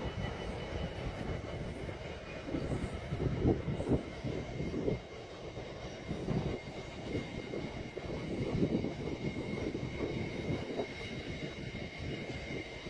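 A train running past on the rails: a rumble with rapid, irregular wheel knocks over the rail joints, and a steady high whine over it.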